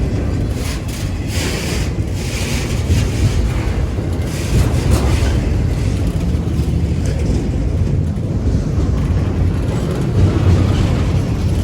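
Freight train of auto-rack cars rolling past: a steady rumble of wheels on the rails, with wind buffeting the microphone.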